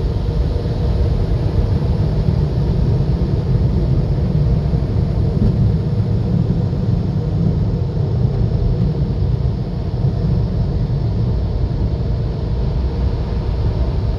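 Drive-through car wash machinery running around the car, heard from inside the cabin: a loud, steady low rumble with a hiss over it.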